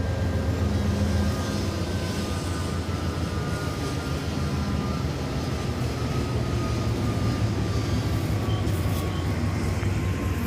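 Freight train rolling past: a steady low rumble, with a faint high whine that falls slowly in pitch.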